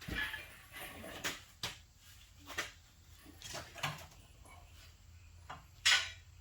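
A series of irregular knocks and clatters, about seven in all, the loudest near the end.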